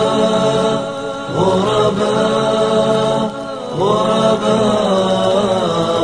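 Male voices singing an a cappella Islamic nasheed, holding long wordless notes over a steady low hummed drone. The voices break off briefly twice and come back in.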